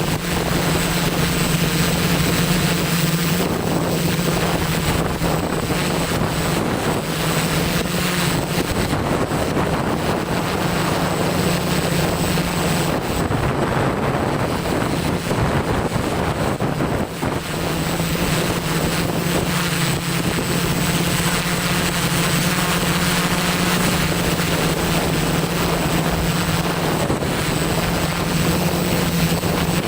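ZeroUAV Steadi470 multirotor drone's propellers humming steadily as it holds against strong wind. The hum eases for a few seconds around the middle, and wind buffets the microphone throughout.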